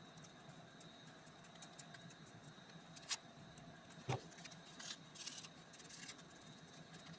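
Quiet handling sounds while working on a junk journal: a few light clicks and taps and a brief rustle over a faint steady hiss.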